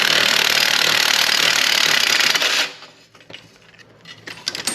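Handheld power tool running steadily for nearly three seconds, spinning an exhaust nut and stud off the V6's exhaust pipe joint, then stopping suddenly; a few light metallic clicks follow.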